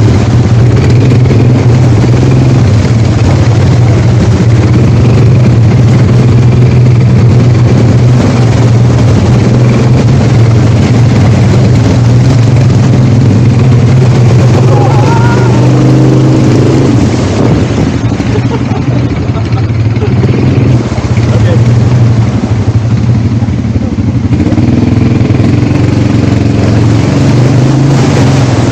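ATV engine running steadily at a constant low pitch, loud and close, easing off for a few seconds past the middle.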